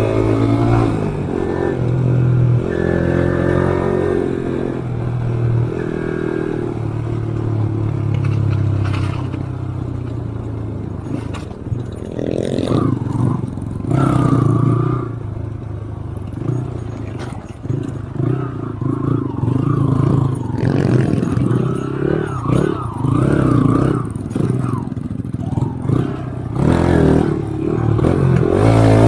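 Motorcycle engine running under load on a rough dirt trail, its revs rising and falling throughout, with clattering and scraping from the bike over the rough ground.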